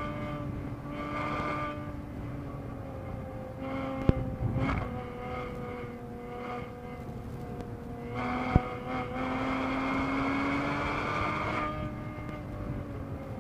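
2013 Porsche Boxster S (981) flat-six engine heard from inside the cabin at high revs in third gear. Its note falls as the car slows for a corner, then climbs and grows louder under acceleration, over road noise. Two sharp clicks come about four and eight and a half seconds in.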